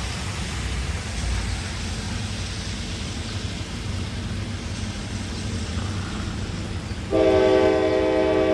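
Diesel freight locomotive's air horn. It starts suddenly about seven seconds in as one loud, steady chord and is still sounding at the end. Before it there is only a low, steady rumble.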